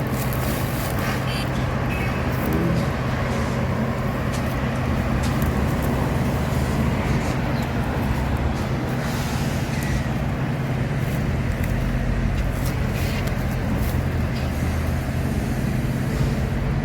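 An engine running steadily at an even speed, a low hum with a few faint ticks over it.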